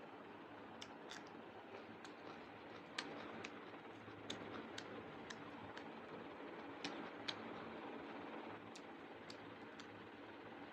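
Quiet eating sounds: scattered small clicks and ticks of mouth and hand on the meal, over a steady low hum. A few louder clicks come about three seconds in and again about seven seconds in.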